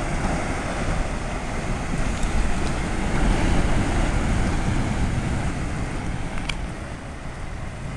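Heavy ocean surf, raised by Hurricane Igor's swell, breaking on the shore: a continuous low rush of water that swells louder in the middle and eases near the end.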